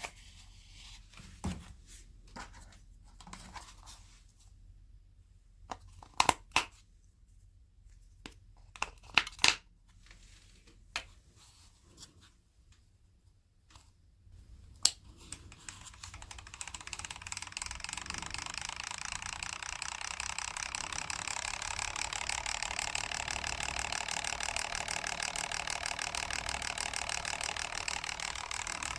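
A few sharp clicks and snaps of parts being handled, then a small battery-powered electric motor starts about halfway through, whirs up to speed and runs steadily with a fast flutter.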